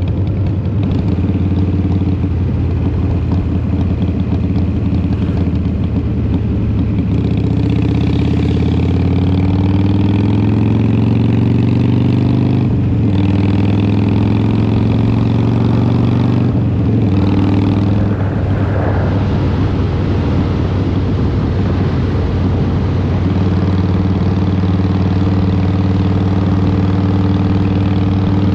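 Harley-Davidson Twin Cam 88 V-twin with a Vance & Hines exhaust, heard from the rider's seat while riding. The engine note climbs as it accelerates through the gears, with a short break at each shift near the middle, then drops back and settles into a steady low rumble near the end.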